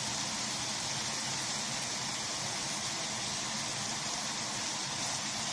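Marinated beef strips sizzling and bubbling in oil and sauce in a frying pan, a steady hiss.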